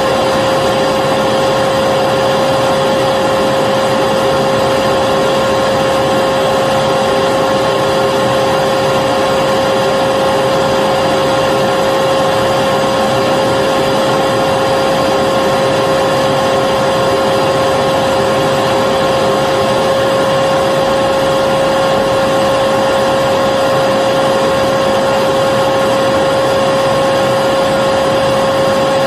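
Vacuum cleaner running continuously at a steady pitch, its motor hum and rushing airflow unchanging, as white noise for lulling a baby to sleep.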